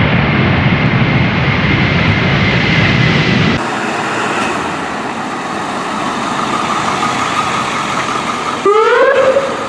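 Vehicle running noise with a faint steady high tone, cutting off abruptly a few seconds in to a quieter hiss; near the end a siren starts with a rising wail.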